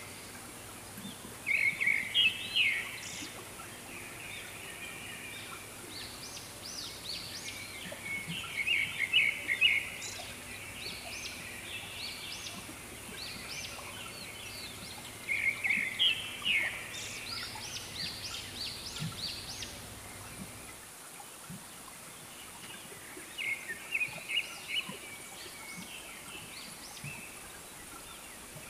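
Birds calling in repeated phrases of rapid, high chattering notes, four louder bursts spaced several seconds apart with fainter calls between, over a steady background hiss.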